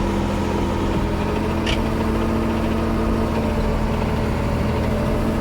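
Ford 9700 tractor's six-cylinder diesel engine running steadily under load, pushing the tractor and manure spreader through a wet patch, with no change in pitch.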